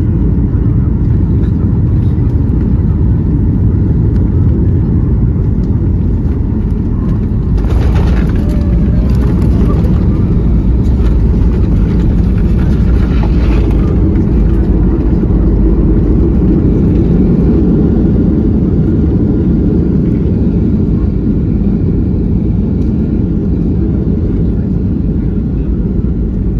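Cabin noise inside a Boeing 737-800 as it lands: a steady, loud low roar of engines and airflow. From about eight seconds in, a louder, hissier rush joins for several seconds before settling back to the rumble.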